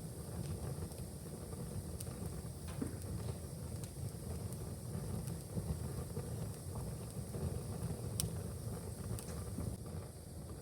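Wood fire crackling in a fireplace: a steady low rumble with scattered sharp pops, the loudest pop about eight seconds in.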